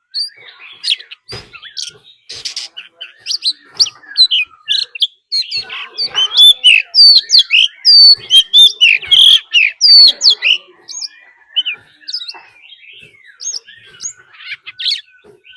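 Oriental magpie-robin singing its fighting song: a fast, varied run of clear whistles and chirps that grows densest and loudest in the middle and thins out toward the end.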